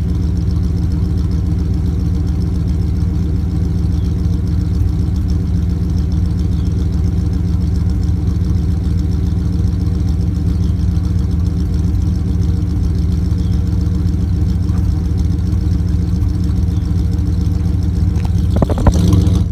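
A 5.9-litre engine idling steadily after a cold start. A short loud noise comes near the end.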